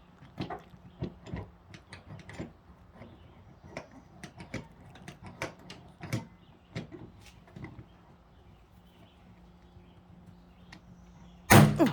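Scattered small clicks and taps of dent-pulling tools being handled and set on the panel, then near the end one loud, sharp pop as a hot-glued dent-puller tab snaps off the car panel.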